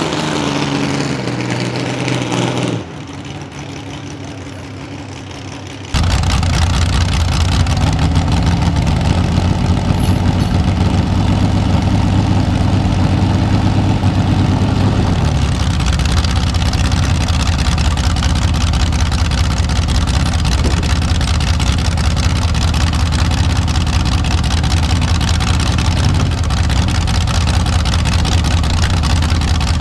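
Mini rod pulling engine running loud and steady, a heavy low drone with a slowly rising tone as it pulls. It cuts in suddenly about six seconds in, after a few quieter seconds of engine sound.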